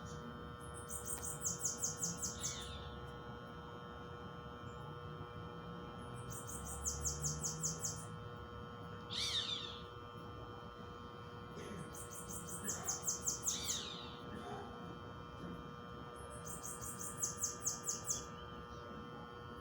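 Bananaquit singing: four short, very high-pitched songs, each a quick run of thin notes, about every five seconds. Between them come a few lower, falling calls, and faint steady tones hum underneath.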